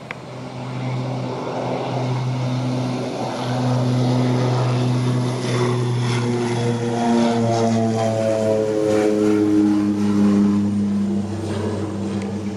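Aircraft engines droning as a plane moves past, growing louder over the first few seconds; from about six seconds in, the engine tone slides steadily down in pitch.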